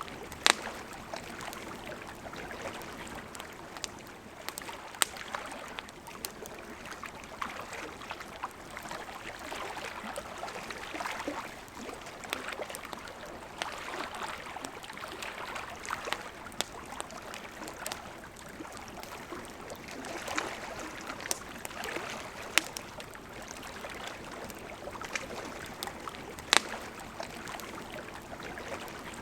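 Campfire crackling, with scattered sharp pops, a few of them loud, over the steady rush of a river.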